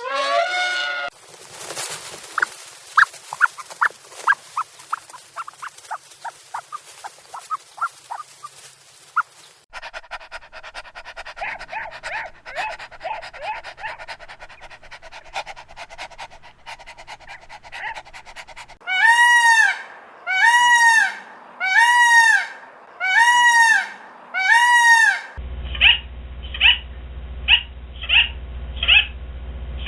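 A run of different animal calls, one after another: rapid chirps and clicks, then six arched, pitched calls about one a second, then quick short calls over a low hum.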